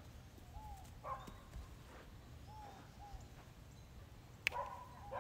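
Faint bird calls: short notes that rise and fall, often in pairs, repeating every second or so. A sharp knock about four and a half seconds in.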